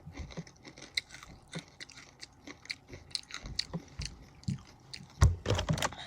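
Close-up crunching and chewing of Takis rolled tortilla chips: many short, crisp crunches scattered throughout, with a few louder knocks about five seconds in.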